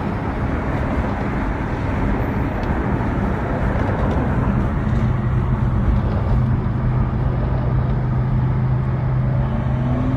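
A car driving, with steady engine and road noise; a low, even engine tone settles in about halfway through.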